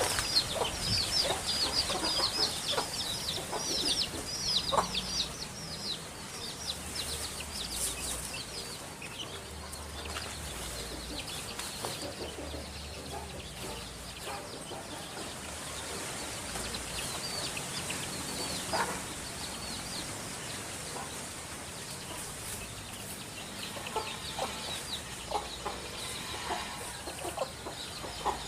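Birds calling: quick runs of short, high, falling chirps in the first few seconds and again near the end, with a few scattered lower calls in between.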